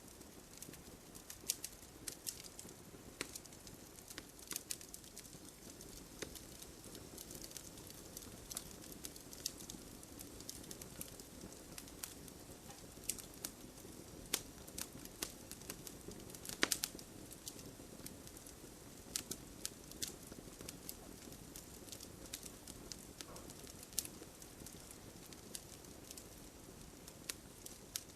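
Wood campfire crackling: frequent irregular sharp pops and snaps over a steady low rush of the flames, with one louder pop a little past the middle.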